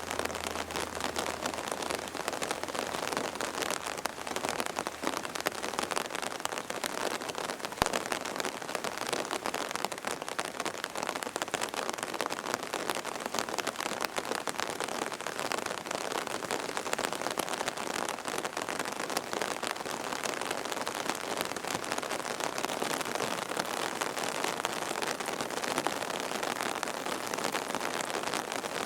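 Steady heavy rain pattering, with one sharp click about eight seconds in.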